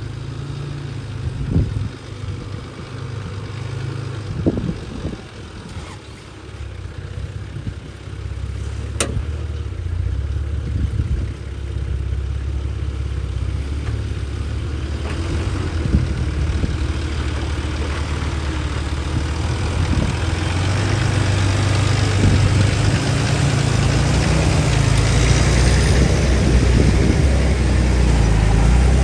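Four-wheel-drive's engine pulling at low speed over a rough track, with a few knocks and one sharp crack about nine seconds in. The engine and a hiss of tyres or wind get louder toward the end.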